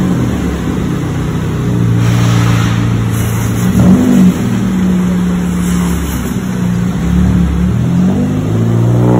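Engine of a first-generation Mazda 3 sedan running loudly as the car pulls away slowly, with a brief rev about four seconds in that cuts off sharply.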